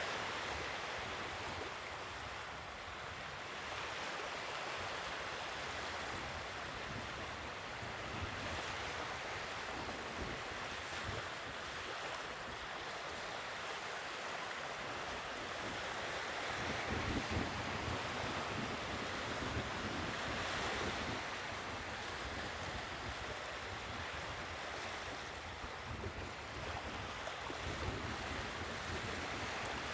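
Sea waves washing in, a continuous surf that swells and eases slowly. Wind on the microphone adds low rumbling gusts in the middle of the stretch.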